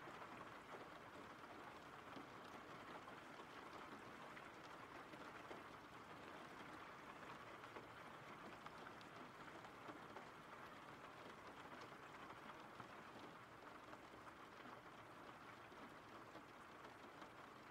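Faint steady rain: an even hiss with scattered drop ticks.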